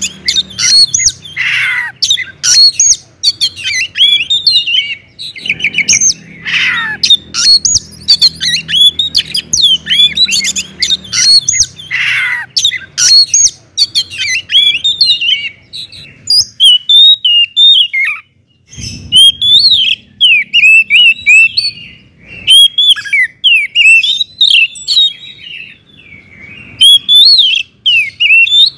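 Oriental magpie-robin (kacer) singing loudly and without pause: a fast, varied stream of whistled and chattering notes, broken a few times by harsh falling calls.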